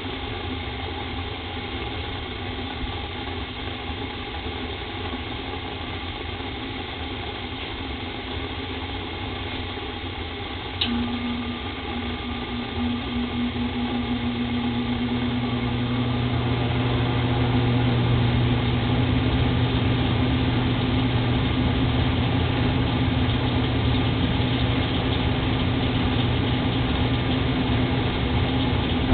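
Old Rheem gas furnace running. About 11 seconds in there is a click, then a steady electrical hum that slowly grows louder, typical of the gas valve opening and gas flowing to burners whose clogged orifices are about to cause a delayed ignition.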